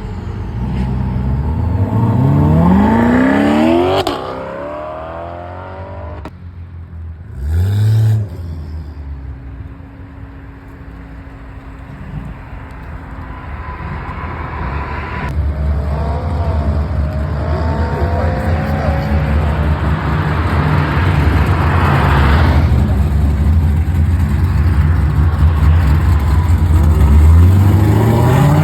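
Car engines revving and accelerating hard. One engine climbs through the revs for a few seconds and then drops off. A short rev blip follows. Engine noise then builds steadily to another hard acceleration near the end.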